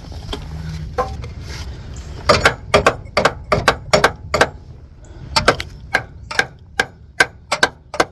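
Repeated sharp taps, about two to three a second with a short pause just before the middle, as a new extension housing seal is driven into a 68RFE automatic transmission's extension housing.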